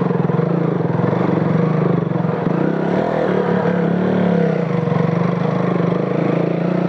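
KTM Duke motorcycle engine running at low road speed under light throttle, its pitch rising a little and settling back about halfway through, as it rides slowly over a loose-stone track.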